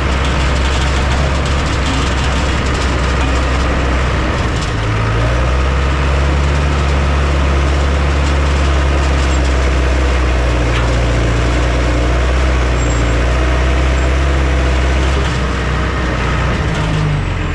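Heavy diesel engine of construction machinery running under load. It revs up about five seconds in and eases back down near fifteen seconds.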